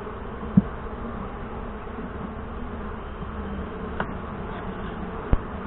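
Saskatraz honey bees buzzing in a steady hum around an opened hive, with a light knock about half a second in.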